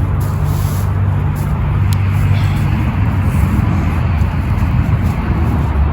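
Road traffic noise: vehicles passing close by with a steady low engine rumble.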